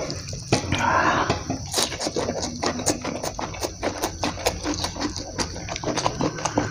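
A person eating rice and bean sprouts by hand, chewing close to the microphone with wet, open-mouthed smacking clicks several times a second. There is a brief noisy mouth sound about a second in.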